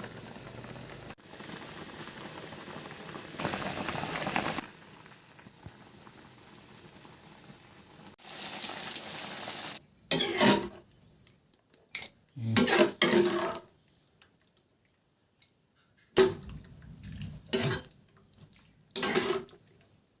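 Kitchen cooking sounds: a pot of soup bubbling, then several short clatters of utensils and dishes.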